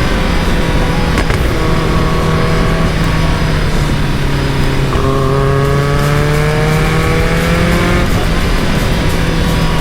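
Caterham Super Seven's engine pulling steadily while driving. About five seconds in its pitch rises as it accelerates, then drops back near the end, as with a gear change.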